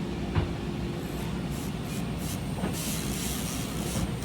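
Orthodontic IPR (interproximal reduction) work on the teeth: a steady low whir of the dental handpiece, with short hissing bursts of air spray repeating from about a second in.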